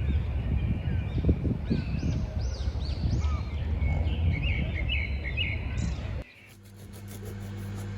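Birds chirping and calling over a steady low rumble, all of which cuts off suddenly about six seconds in.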